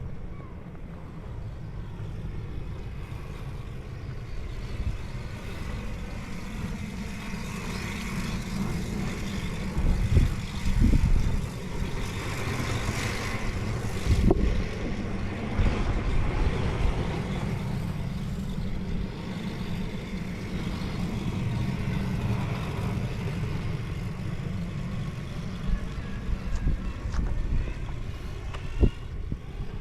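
Steady low rumble of a running vehicle, with a few brief thumps about ten, fourteen and twenty-nine seconds in.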